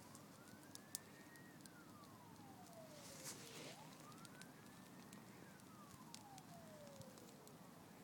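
A siren wailing faintly, its pitch rising slowly, holding, then falling, through two long cycles.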